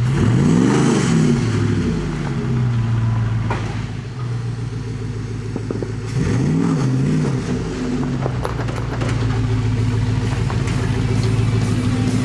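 HEMI V8 engine in a Willys Jeep pickup idling, revved briefly twice: once about half a second in and again about six and a half seconds in.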